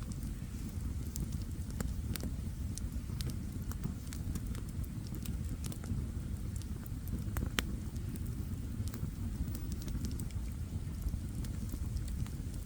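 Wood campfire burning, with a steady low rumble of flames and irregular sharp crackles and pops of the burning wood, one louder pop about seven seconds in.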